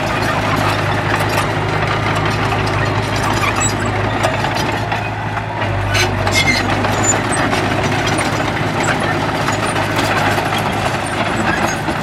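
Diesel engine of a heavy earthmoving machine running steadily, with a few sharp knocks about halfway, after which a deeper rumble joins in.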